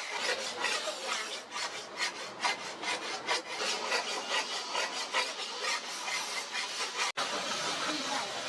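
Hand file or rasp worked back and forth in repeated strokes, about three a second, with a momentary break about seven seconds in.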